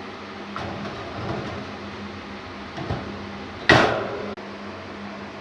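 A steady low hum with a few light knocks, then one louder sharp knock or clatter a little over three and a half seconds in.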